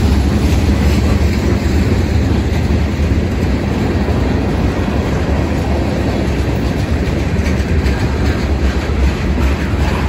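Freight train tank cars rolling past at close range: steel wheels on rail making a steady, loud, deep rumble.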